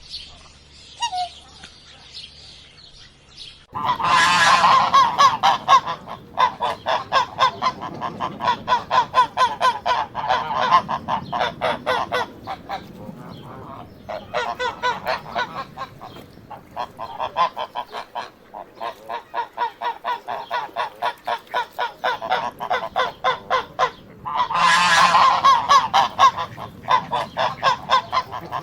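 Birds calling together: after a few quiet seconds, a loud run of rapid, repeated calls, several a second, with brief pauses and a louder surge near the end.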